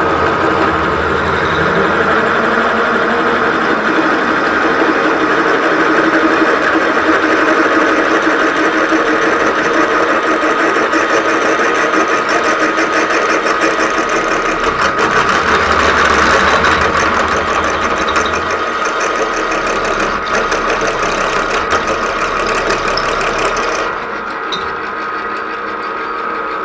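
Milling machine spindle turning a 23/32-inch drill bit at about 345 RPM through a hot-rolled steel block: a steady whine over dense cutting chatter, at a speed the machinist judges a bit quick for the bit. The cutting noise lessens a couple of seconds before the end.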